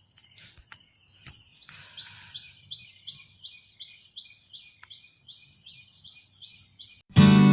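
A bird calls in a fast run of short, high, rising chirps, about three a second, after a few faint clicks. Loud strummed acoustic guitar music cuts in near the end.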